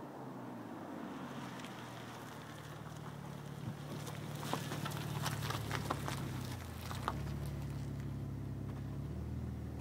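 Audi A6 idling through a Magnaflow exhaust with straight pipes and resonators, a steady low exhaust note. A few faint clicks come in the middle.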